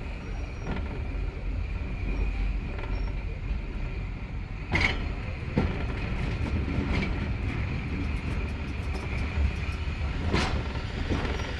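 Heritage railway train running on the rails: a steady rumble with a thin squeal from the wheels, and two sharp knocks, about five seconds in and near the end.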